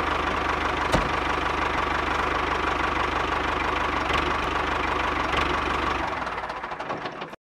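Mini tractor engine running steadily with a fast, even knocking beat and a steady whine, with a click about a second in; it fades over the last second and a half and then cuts off.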